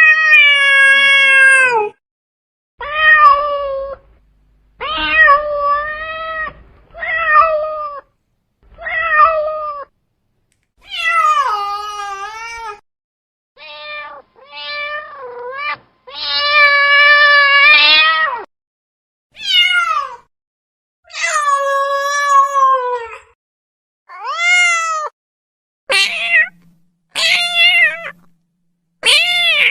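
A domestic cat meowing over and over: about fifteen separate meows, some short and some drawn out to about two seconds, several bending up and down in pitch, with dead silence between them.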